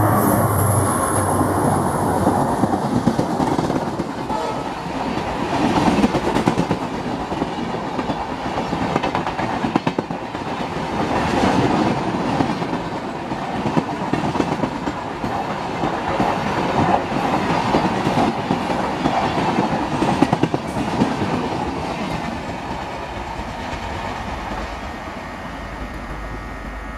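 Indian Railways express train passing close by, its coach wheels clattering over the rail joints; the sound eases off in the last few seconds.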